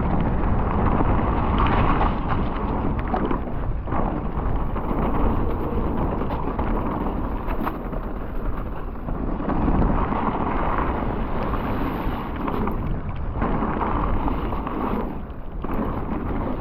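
Mountain bike descending a wet trail at speed: wind rumbling over the camera microphone, with tyre noise and scattered clicks and knocks from the bike over bumps.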